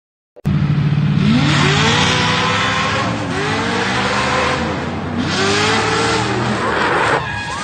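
Car engine accelerating hard, its revs climbing in three pulls with two gear changes in between.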